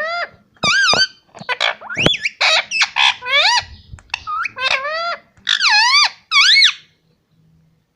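Pet parrot vocalizing in a rapid series of short, high, warbling calls that rise and fall in pitch, stopping about a second before the end.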